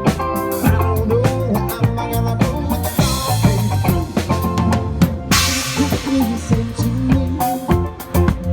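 Party band playing an instrumental passage, a drum kit with bass drum and snare keeping a steady beat under bass and other instruments, with cymbal washes about three seconds in and again just after the middle.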